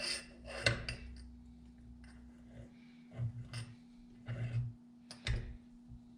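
Metal chainsaw parts and tools clinking and knocking against each other on a workbench, a handful of separate light strikes with brief ringing.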